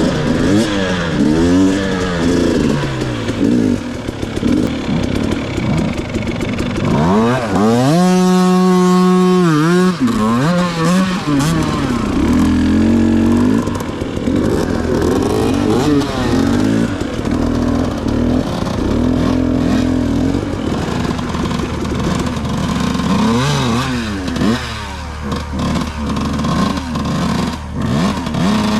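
Two-stroke dirt bike engine being ridden, revving up and down over and over, with one longer steady high-rev pull about eight seconds in.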